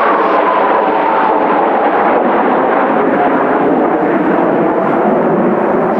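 Kawasaki T-4 jet trainers' turbofans roaring in flight, with a whine that slowly falls in pitch as the aircraft move away.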